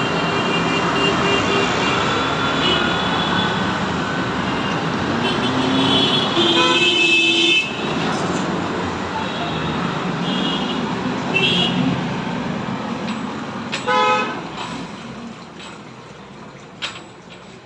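Busy road traffic: a steady wash of engine and tyre noise with vehicle horns honking several times, most strongly about seven seconds in and again about fourteen seconds in. The traffic noise fades away over the last few seconds.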